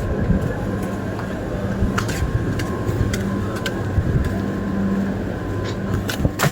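Steady mechanical hum with a constant tone, over a noisy background, with scattered sharp clicks.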